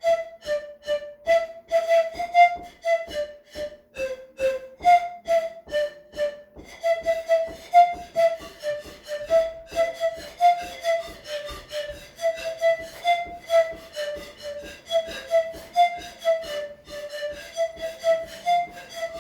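Russian folk panpipes played by a small group in interlocking parts: short, breathy, rhythmic notes hopping back and forth between a few close pitches, about three to four a second.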